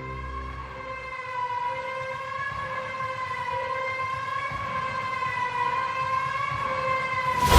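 A siren-like wail in a dramatic soundtrack: one long, slowly wavering high tone with overtones over a low rumble. A sudden loud hit near the end brings the music back in.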